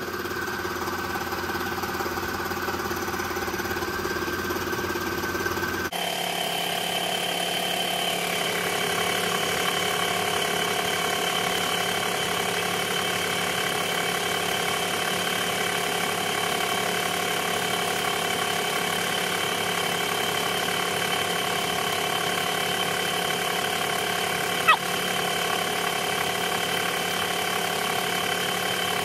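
Toyota 4Runner's 3.4-litre Four Cam 24 V6 idling steadily during a combustion leak test for a blown head gasket. A single brief click near the end.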